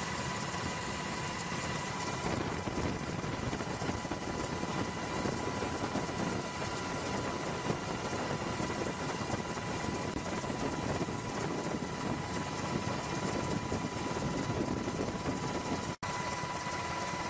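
Steady engine or machinery rumble with a faint constant whine, unchanging throughout, broken by a brief dropout near the end.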